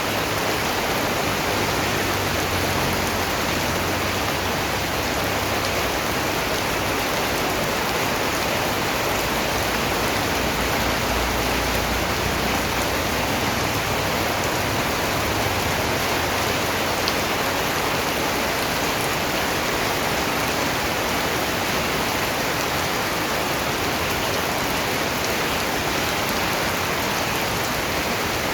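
Steady rain falling, an even hiss of many drops that holds without a break.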